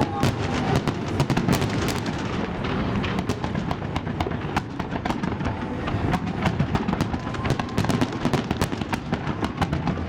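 Fireworks salute going off: a dense, continuous run of bangs and crackling pops, many every second, over a steady rumble.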